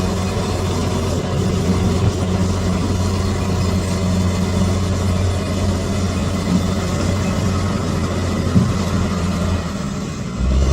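Bulldozer's diesel engine running steadily with a deep hum, dropping briefly near the end and then picking up again.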